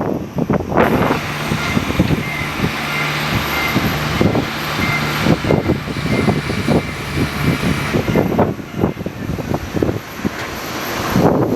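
Strong gusty wind buffeting the microphone, with a steady engine hum and a high whine running under it from about a second in until about eight seconds in.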